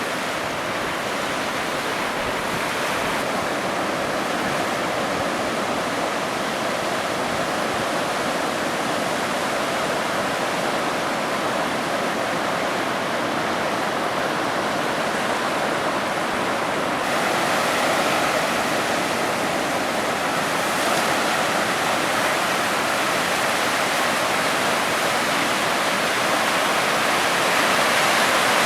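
Ocean surf: a steady rush of breaking waves that swells a little louder three times, the last near the end.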